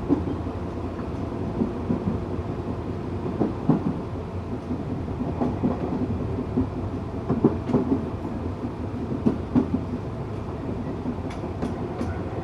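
Tokyu 8500 series electric train running steadily along the track: a continuous rumble with wheels knocking over rail joints at irregular intervals.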